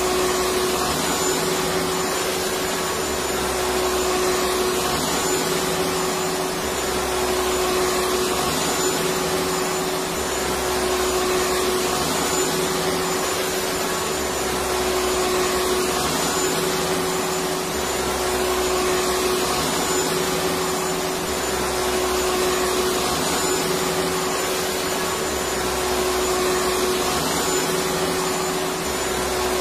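Electric vacuum cleaner running continuously: a steady rushing of air with a steady motor whine, its low end swelling and easing every few seconds.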